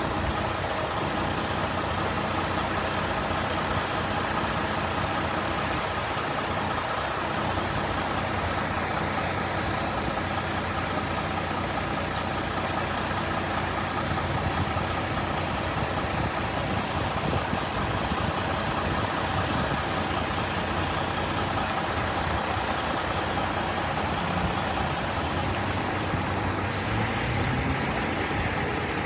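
Steady rush of water gushing from a sheared-off fire hydrant, with a vehicle engine idling underneath.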